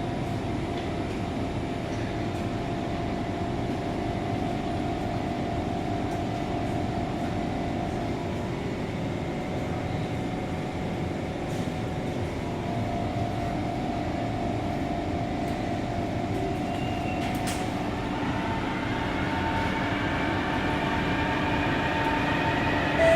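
Inside a Kawasaki C151 MRT train running on the track: a steady rumble and hiss with a faint held tone. Over the last few seconds a motor whine rises in pitch.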